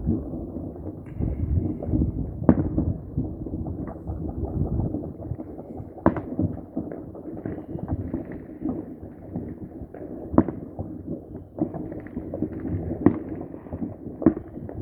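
Fireworks and firecrackers going off, a continuous irregular crackle of small pops with a louder single bang every few seconds.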